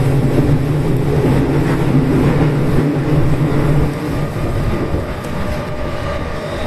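Yokosuka Line electric commuter train running along the track, heard from inside the front car behind the driver's cab. The running noise is steady, with a low hum that drops away about four seconds in.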